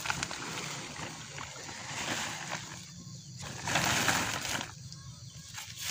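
Plastic tarp or vinyl banner being pulled back off a seedbed, rustling and crinkling, with a louder rush of the sheet about four seconds in.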